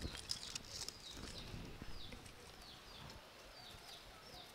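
A small bird chirping faintly and repeatedly, short falling chirps in a steady series about two to three a second. In the first second or two there are light clicks and rustles of dry sticks being handled at a clay stove.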